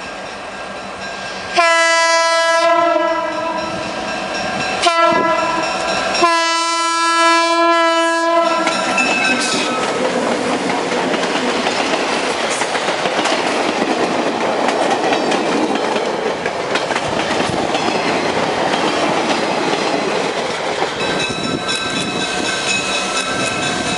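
Diesel locomotive air horn sounding for a grade crossing: a long blast, a short one and a final long one. The train then passes close by, a steady rumble with the wheels clicking over the rail joints.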